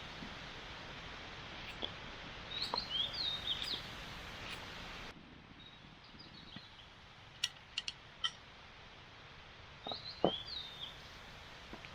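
Small birds chirping in short clusters, twice, over a steady hiss that cuts off abruptly about five seconds in; a few sharp clicks come near eight seconds.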